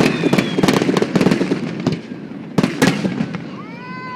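Fireworks display: a dense crackle of many small firework bursts, then two sharp, louder bangs about two and a half seconds in.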